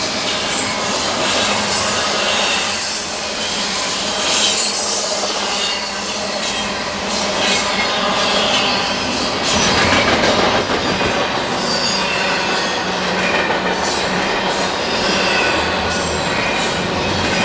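Freight train rolling past on the mainline, steel wheels clacking and rattling on the rails without a break.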